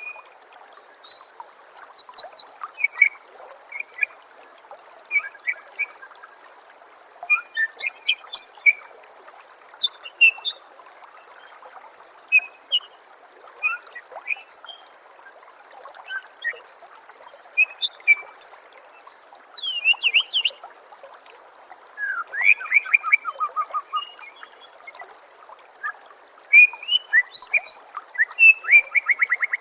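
White-rumped shama (murai batu) singing a long string of varied short whistles, chirps and quick rising and falling trills. Under it runs a steady trickle of water.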